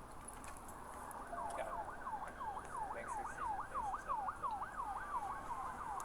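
Emergency vehicle siren in a fast yelp, rapid pitch sweeps about four a second, starting about a second in.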